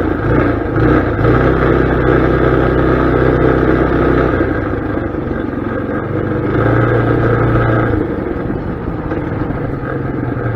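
Mini bike's small engine running while being ridden, its note stepping up and down a few times as the throttle changes.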